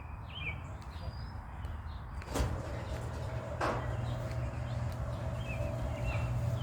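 A door being shut: two sharp knocks about a second apart, with birds chirping at the start and a steady low hum afterwards.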